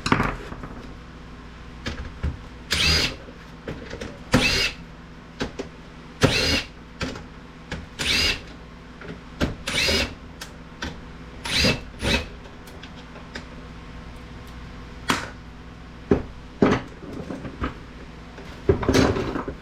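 Cordless drill/driver whirring in about ten short bursts, each under a second, while backing screws out of a computer monitor's housing.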